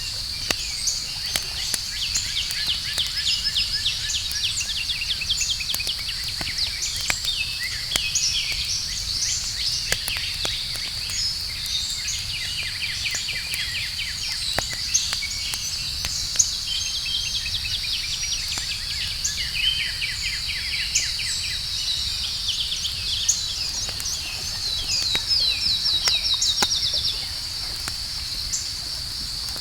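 Outdoor nature ambience: a steady high insect drone under many birds chirping in quick trills, with scattered sharp crackles from a campfire.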